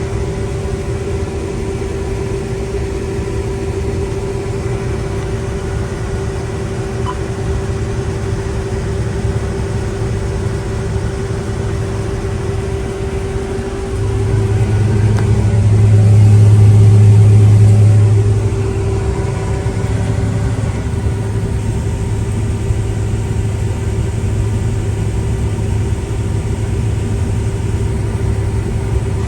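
A tractor engine running steadily with a constant whine over a low drone. About halfway through, the low drone swells up and grows loudest for a few seconds, then eases back to a steady run.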